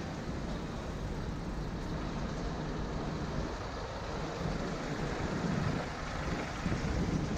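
Steady street traffic and road noise heard from a moving bicycle, with low wind rumble on the microphone.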